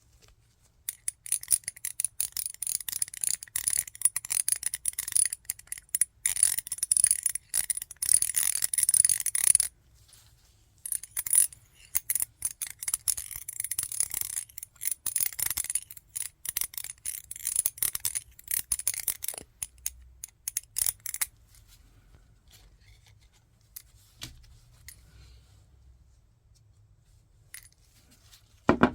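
Many small hard objects clicking and scraping rapidly against glass, with a faint high ringing under the clatter. It comes in two long stretches split by a short pause, then dies down to a few faint ticks.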